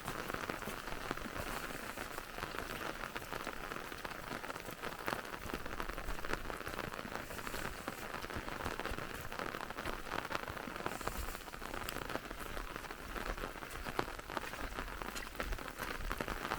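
Steady rain falling, with many sharp individual drop ticks close by.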